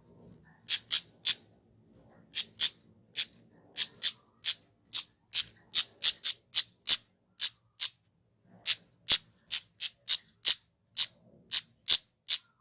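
Kemade (flowerpecker) calling a long series of short, sharp, high-pitched notes, two or three a second, broken by brief pauses.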